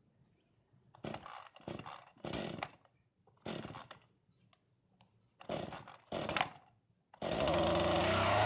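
Two-stroke petrol chainsaw being pull-started: six short rasping pulls on the starter cord, then about seven seconds in the engine catches and keeps running steadily. It is cold after a season of storage and freshly fuelled.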